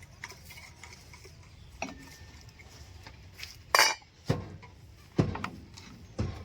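About five separate sharp knocks and clinks of hard objects striking each other, the loudest about four seconds in.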